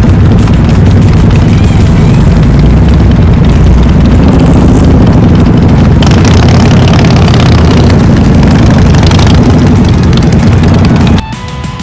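A motorcycle engine running loud and close, a steady low rumble with extra hiss for a few seconds in the middle, that starts and cuts off abruptly.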